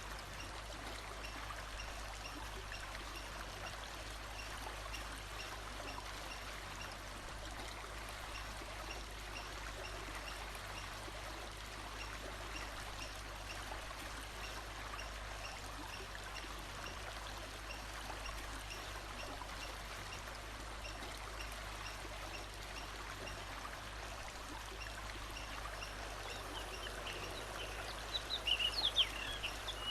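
Steady rush of flowing water, with a faint high chirp repeating evenly in the background. Near the end a bird gives a short burst of quick sharp notes, the loudest sound.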